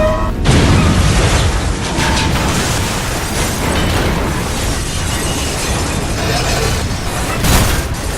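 Explosion sound effect: a sudden loud blast about half a second in, then several seconds of dense rumbling noise, with a second burst near the end.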